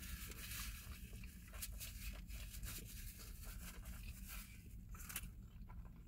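Close-miked chewing and wet mouth clicks of someone eating a falafel pita, with a few sharper smacks and a light rustle of its paper and foil wrapper.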